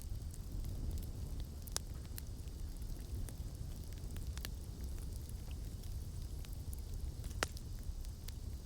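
Campfire crackling: scattered sharp pops and snaps over a steady low rumble, with one louder pop about seven seconds in.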